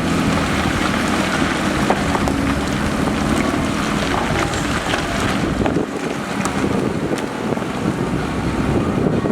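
Heavy earthmoving machinery's diesel engine running with a dense low rumble and a few sharp clanks, easing slightly about six seconds in, with wind noise on the microphone.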